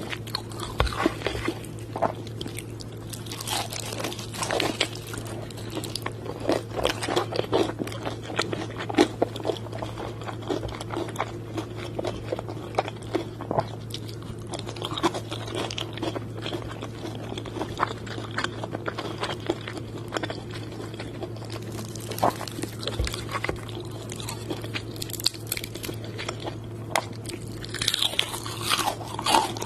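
Close-up crunching and chewing of crispy fried chicken: many irregular crackly bites and chews in quick succession, over a steady low hum.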